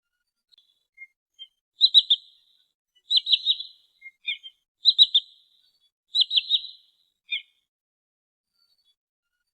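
Trinil sawah sandpiper calling: four high, quick three-note whistled calls, with a few shorter single notes between them.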